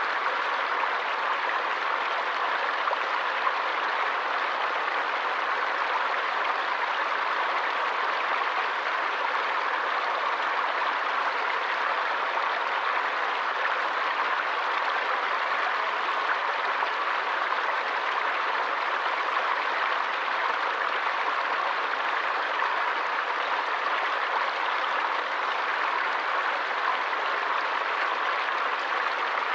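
A forest stream flowing steadily: an even, unbroken rush of running water.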